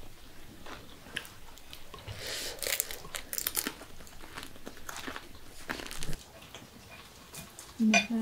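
A man biting into crusty bread with a meat filling and chewing it, the crust crunching in a run of crackles about two to four seconds in. A brief voice is heard near the end.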